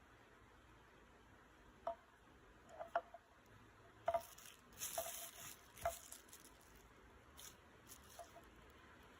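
Faint household handling sounds: a handful of light, short taps or clinks spread a second or so apart, with a brief rustle about five seconds in.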